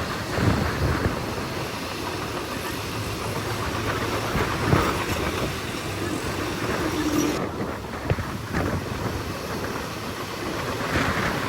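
Heavy earthmoving machine running steadily, with scattered knocks and clanks.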